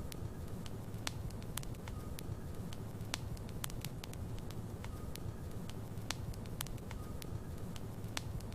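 Logs burning in a fireplace: a steady low rumble of flames with sharp, irregular crackles and pops, about two a second.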